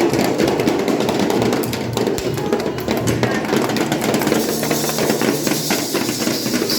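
Children's noise orchestra playing drums and other hand percussion with music, a dense, rapid clatter of many strikes at once.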